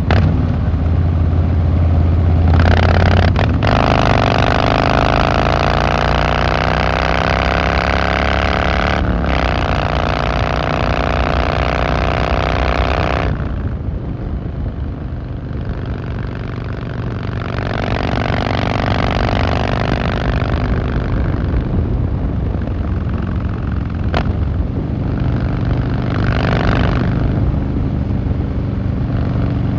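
Harley-Davidson Fat Boy Lo V-twin engine and exhaust under way. It accelerates with a rising pitch for several seconds, with a brief break about nine seconds in as it shifts gear. It then eases off into a quieter, steadier running sound that swells again twice.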